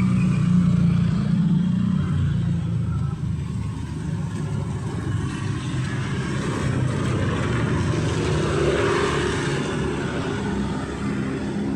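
Street traffic: vehicle engines running as cars and motorbikes pass, with a low engine hum loudest in the first couple of seconds.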